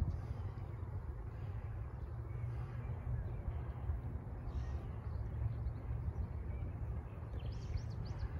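Birds calling over a steady low rumble, with a quick run of short, high chirps near the end.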